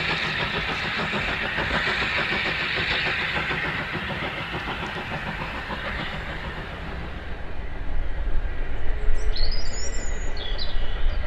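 British Rail Class 43 HST passing on the rails, a steady rushing noise that fades away over the first six seconds. From about eight seconds a low rumble builds, with a few bird chirps near the end.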